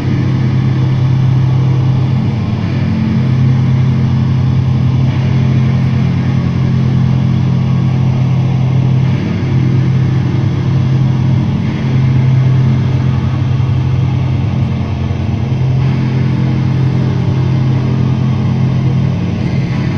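Heavy band playing live through a loud PA: a dense, distorted low drone that holds and shifts every few seconds, with a wall of noise above it.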